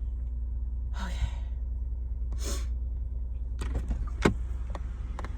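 A car engine idling as a steady low hum, with two sharp breaths about a second and two and a half seconds in. A few clicks and knocks come near the end.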